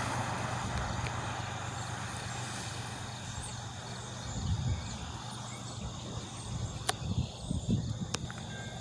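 Steady low hum of a stopped car's engine idling, with a steady high insect drone, a few low rumbles, and two sharp clicks near the end.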